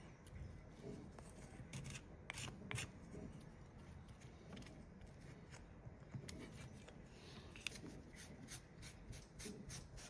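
Faint workbench handling sounds: scattered short snips and clicks over light rubbing, as of insulation and wire being cut and worked by hand onto a transformer winding.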